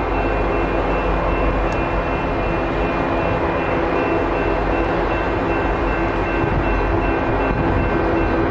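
A train passing close by: a loud, steady rumble with several steady tones held over it and no change in level.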